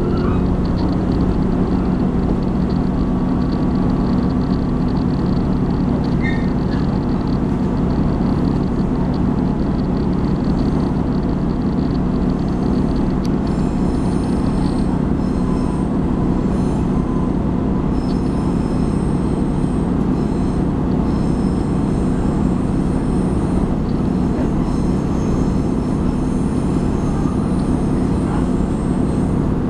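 Diesel passenger train running along the line, heard from inside the carriage: a steady low rumble and hum of engine and wheels on the rails. From about halfway through, a faint high-pitched wheel squeal comes and goes.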